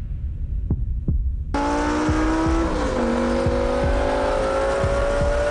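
Lamborghini engine under hard acceleration, cutting in abruptly about a second and a half in over a low, heartbeat-like thumping. Its pitch dips once at an upshift and then climbs steadily.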